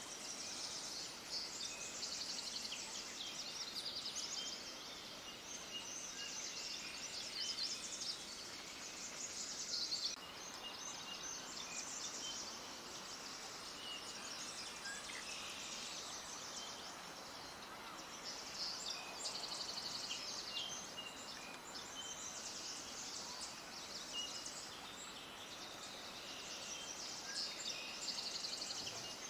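Many small birds chirping and twittering together in a dense high-pitched chorus, swelling and easing in waves.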